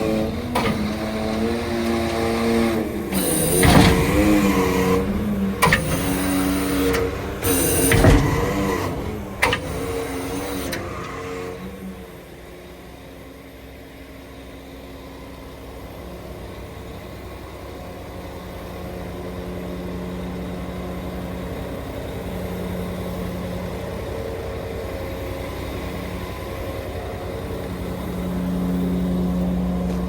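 Scania R490 truck's six-cylinder diesel engine running, its pitch rising and falling in the first ten seconds or so, with several short sharp noises. About 12 seconds in it drops to a quieter, steady run with a droning tone.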